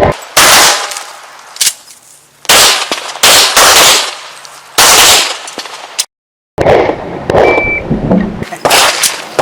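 Shots from a .40 S&W competition pistol fired in quick singles and pairs at uneven intervals, each sharp crack trailing off in a short echo. The sound drops out completely for about half a second around the middle.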